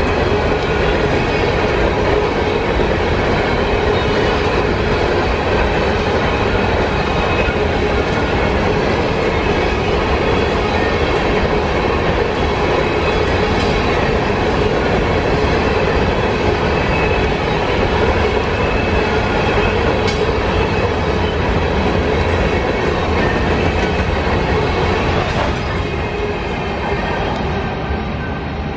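Empty open-top hopper cars of a freight train rolling past at close range: a continuous loud rumble and rattle of steel wheels on the rails, with a steady hum running through it. The noise eases slightly near the end.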